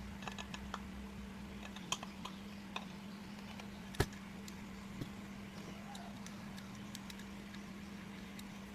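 Sparse small clicks and taps from hands fitting a sandpaper disc onto a sander pad: a few light ticks, with one sharper click about four seconds in. A faint steady hum runs underneath.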